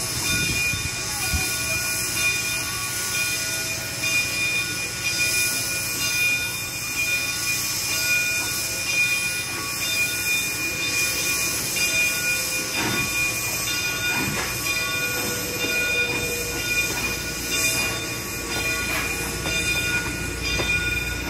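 Steam-hauled train rolling along the track, with a steady squeal of wheels on the rails and a continuous rumble of rail noise.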